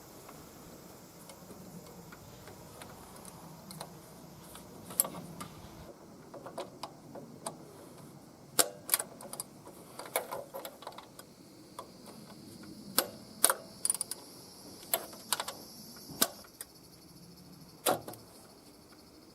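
Hand tools clinking and knocking on metal car parts: scattered sharp clicks and taps, coming more often and louder in the second half.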